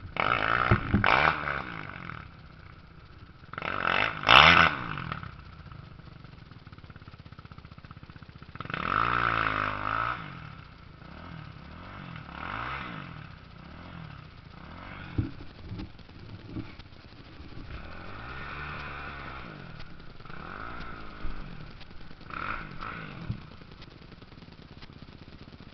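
Motocross motorcycles racing past one after another, engines revving up and down with the pitch swooping as each goes by. The loudest passes come in the first five seconds and again about nine seconds in; later ones are fainter.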